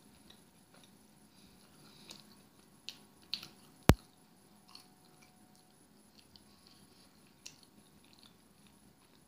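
A person chewing a mouthful of food close to the microphone: soft, faint crunching and small mouth clicks. A single sharp click stands out just under four seconds in.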